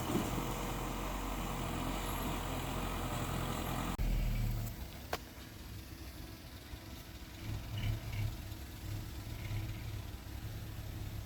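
Diesel engine of heavy earthmoving equipment running steadily. About four seconds in the sound drops abruptly to a quieter, lower engine note.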